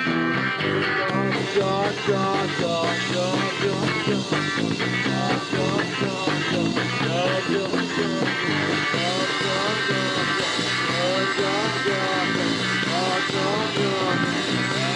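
Live rock band playing loud and steady: electric guitar with bending notes over bass and drums, with no singing in this stretch.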